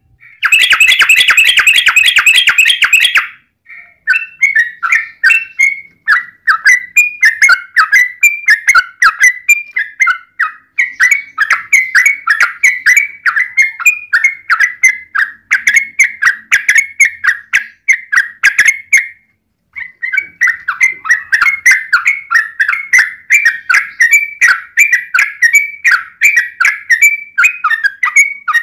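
Yellow-vented bulbul (trucukan) song: a dense, harsh chatter for about the first three seconds, then long runs of quick bubbling notes, with a short break about two-thirds of the way through.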